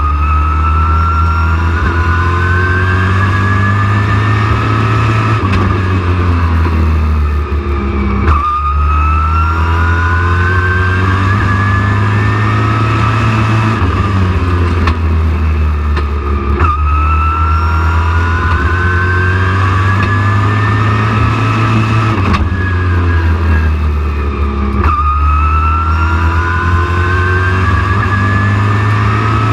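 Super truck race engine running hard on a short oval. Its pitch climbs steadily for several seconds, then drops sharply as the throttle is lifted, and this repeats about every eight seconds.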